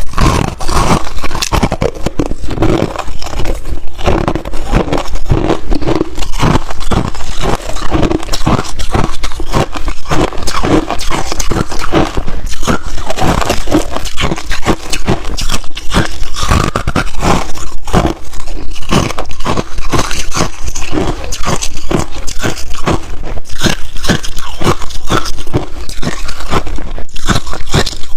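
A person biting and chewing ice: a loud, dense, continuous run of crunches and cracks.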